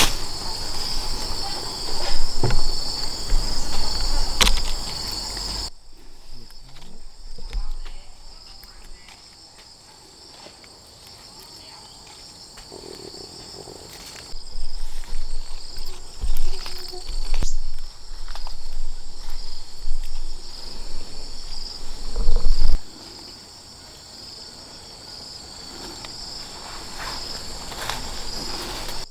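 Insects trilling steadily in a high, continuous chorus, with louder irregular rustling and knocking noises through the first few seconds and again through the middle; the loudest knock comes near the end of that middle stretch. The background drops abruptly about six seconds in.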